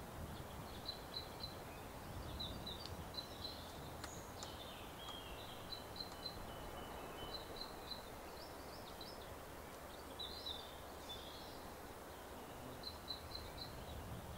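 Faint woodland ambience: a small bird repeating short high chirps in quick runs of three or four, every second or two, over a steady low hiss.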